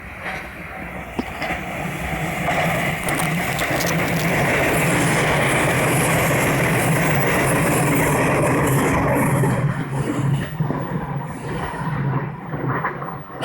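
A JR Central electric commuter train passing close by. The rumble of its wheels on the rails swells over the first few seconds and holds steady, then breaks into an uneven clatter as the last cars go by.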